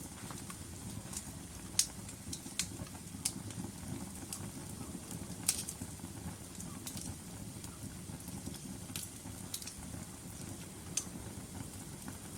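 Wood logs burning in a fireplace: a steady low rumble of the flames with irregular sharp crackles and pops, about one every second or so.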